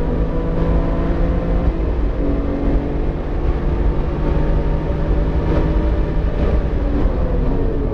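BMW E46 M3's straight-six engine running under load at speed, its note shifting in pitch about two seconds in and falling near the end as the throttle changes. The engine is freshly built and still being broken in.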